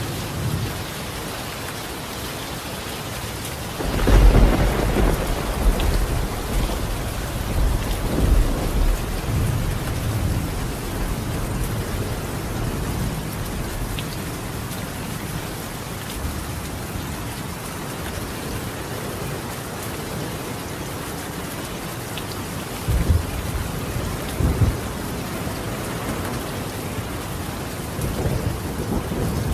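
Steady rain falling on a clay-tile roof, with a thunderclap about four seconds in that rolls on in low rumbles for several seconds. A second, shorter roll of thunder comes past the middle, and more rumbling builds near the end.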